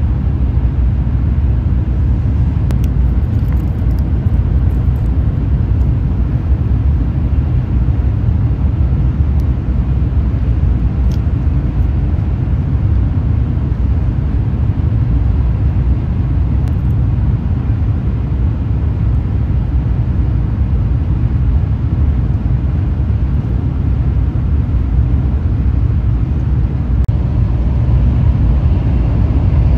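Steady low rumble of a Shinkansen bullet train running at speed, heard from inside the passenger cabin, with a few faint clicks.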